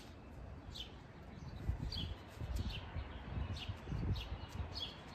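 Birds chirping: short high chirps repeating every half second to a second, over a low, uneven rumble.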